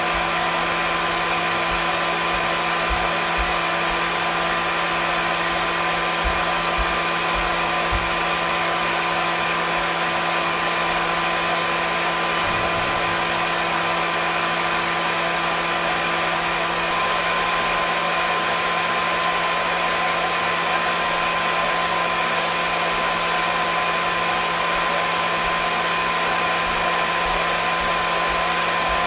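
Hair dryer running steadily: an even rushing air noise with a constant motor hum and whine, unchanging throughout.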